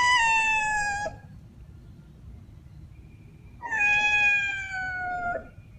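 A cat meowing twice: a short meow of about a second, then a longer, drawn-out meow a few seconds later. Both fall slightly in pitch.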